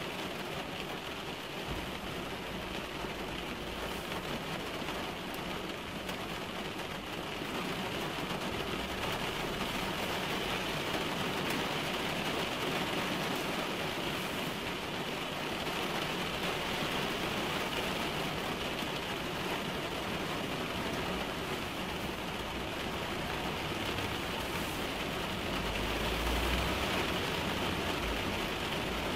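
Steady rain drumming on a car's roof and windshield, heard from inside the cabin, growing a little heavier about eight seconds in. A brief low rumble comes near the end.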